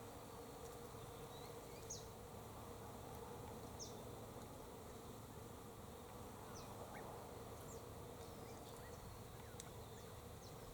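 Faint steady hum with a few brief, high bird chirps scattered through it.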